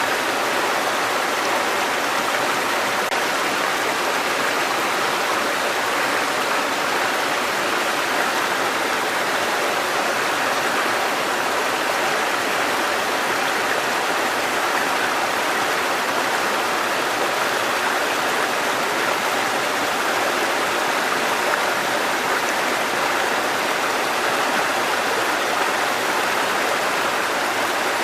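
Water cascading down a mountain stream in a steady, unbroken rush.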